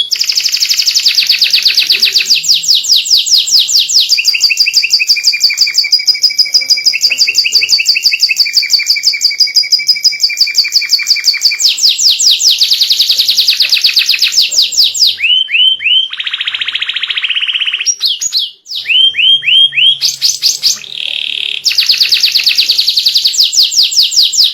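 White domestic canary singing a long, loud song of rapid trills, each made of sharp notes repeated about ten times a second, switching to a new trill every few seconds, some with a steady whistle held underneath. Canary song of this kind is used as a master recording to teach young canaries to sing.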